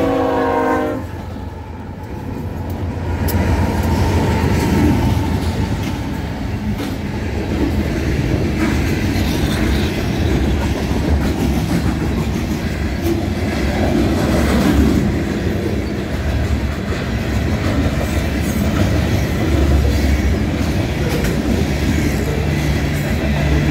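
Union Pacific diesel freight locomotive's multi-tone horn sounding, cutting off about a second in, then the train rolling past at close range: a loud, continuous rumble with wheels clattering as the hopper cars cross the grade crossing.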